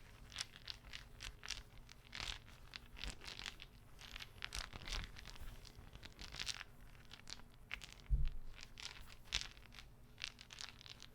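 An irregular run of soft, close-up clicks and short rasping scrapes from a small handheld object being worked for ASMR, with one low thump about eight seconds in.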